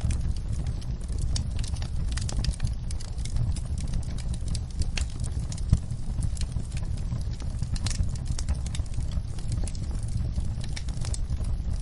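Wood fire in a fireplace crackling with many irregular sharp pops over a steady low rumble, with rain falling; one louder pop comes about halfway through.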